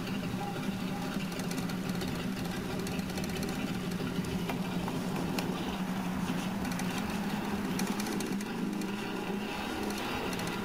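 Steady hum of a small electric motor running.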